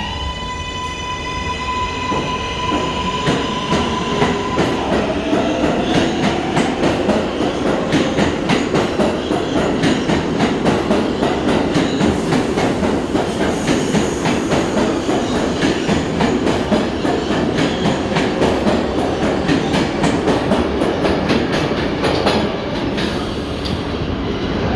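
Kawasaki R142A subway train accelerating out of a station. Its electric propulsion holds a high steady whine for about the first five seconds, then lower tones climb as the clicks of the wheels over rail joints come faster and the wheel-on-rail noise grows, easing slightly near the end.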